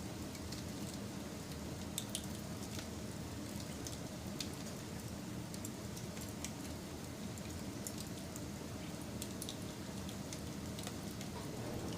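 Wood fire burning with a steady low rumble and scattered sharp crackles and pops, one or two a second.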